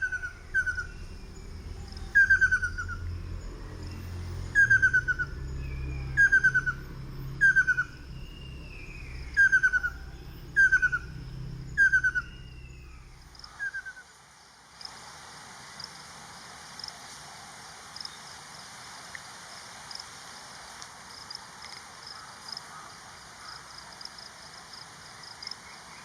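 Ruddy kingfisher calling: a series of about ten descending trilled whistles, one every second or so, over a low rumble. After about fourteen seconds the calls stop and a steady high chirring of insects runs on.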